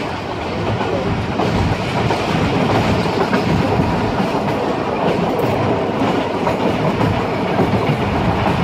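Running noise of a moving passenger train's coach wheels on the track, heard from inside the coach at the window. It grows a little louder about a second and a half in and then holds steady.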